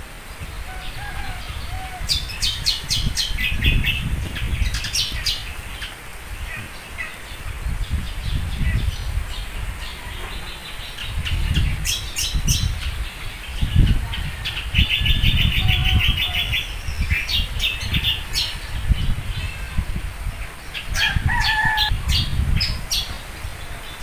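Birds calling up in palm trees: rapid trains of sharp, high chattering notes coming again and again, with some shorter whistled notes. Low rumbling gusts run underneath.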